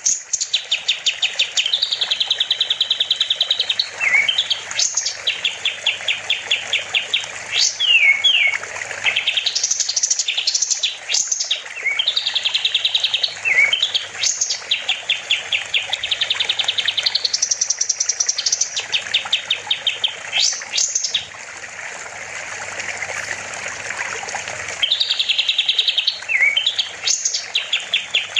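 A kapas tembak singing a loud, varied song: repeated phrases of fast rattling trills mixed with quick rising and falling whistles. The song lets up for a few seconds about three quarters of the way through, then picks up again.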